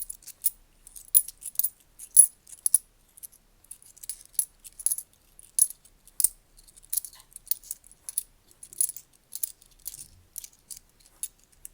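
10p coins clicking against each other as they are flipped through quickly by hand: an irregular run of small, sharp metallic clicks, several a second.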